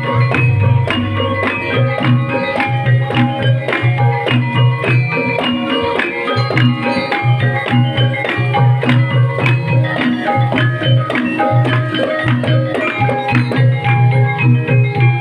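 Ebeg accompaniment music in the Banyumas gamelan style: tuned percussion struck in quick, dense interlocking notes over a repeating low drum beat.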